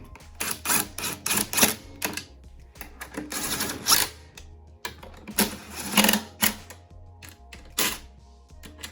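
Impact driver hammering carburetor mounting nuts down onto their studs on a lawnmower engine. It runs in several short bursts of rapid rattling clicks, with the longest burst about three to four seconds in.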